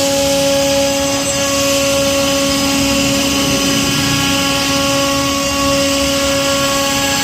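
CNC router running steadily: a constant, unchanging hum with a steady pitch over a bed of machine noise.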